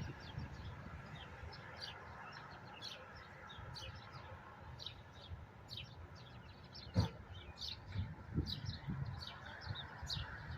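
Birds chirping, short high calls repeated about twice a second, over a steady hiss of rain and wind. A single thump about seven seconds in.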